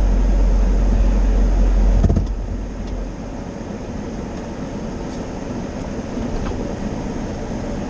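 Car cabin noise as the car rolls into an automatic car wash. A heavy low rumble gives way to a knock about two seconds in, after which the rumble drops off and leaves a steady hiss.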